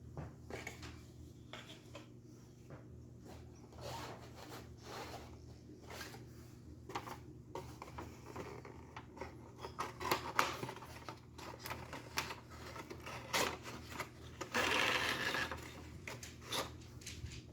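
Cardboard boxes and small plastic HO scale model train cars being handled: scattered taps, clicks and rustles, with a rubbing, scraping noise lasting about a second near the end.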